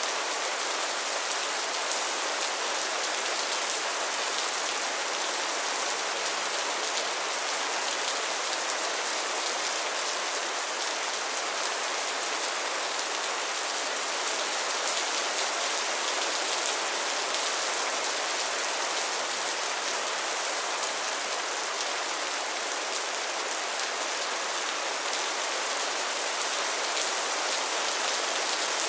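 Steady rain falling and pattering on a surface, a dense even hiss with fine drop crackle.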